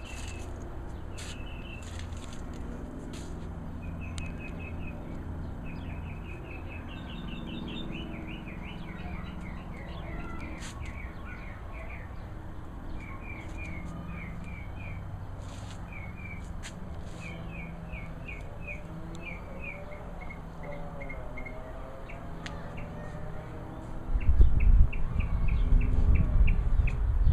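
Songbird singing repeated phrases of quick chirps and trills over a steady low background hum. Near the end a loud low rumble comes in and drowns the lower sounds.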